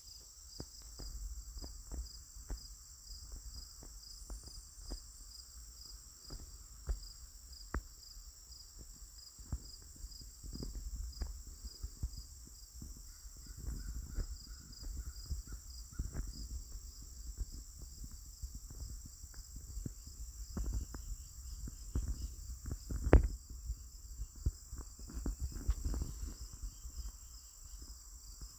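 Steady chorus of crickets or katydids: a high, even, pulsing trill throughout. Over it are scattered low crackles and knocks, with one louder thump about 23 seconds in.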